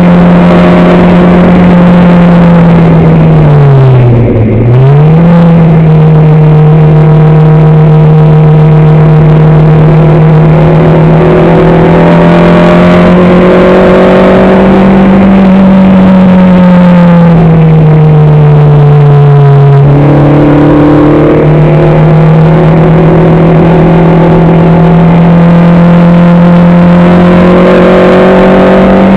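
Car engine heard loud from on board, running at a fairly steady pitch under way. It briefly drops and picks back up about four seconds in, sags slowly later, then steps up sharply about twenty seconds in.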